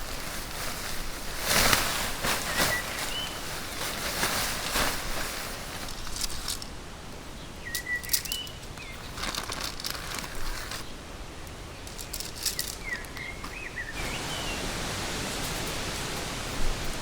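Outdoor ambience: a steady hiss with scattered rustling and handling noises and a few short bird chirps.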